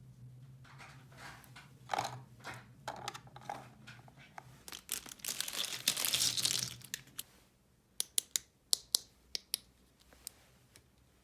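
Plastic toy packaging and parts being handled: irregular crinkling and tearing, loudest a few seconds before the end of the rustling, then a quick run of sharp clicks, like small plastic pieces snapping or tapping together, a little after two-thirds of the way in.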